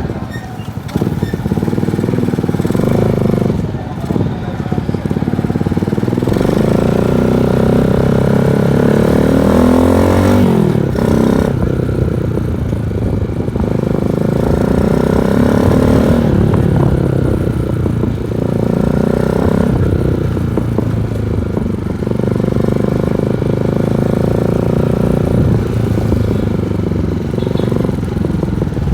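Honda TMX 155 single-cylinder four-stroke engine running through an SC Project aftermarket muffler while being ridden, its deep bass exhaust note rising and falling as the throttle is opened and closed. The pitch drops sharply about ten seconds in as the rider eases off.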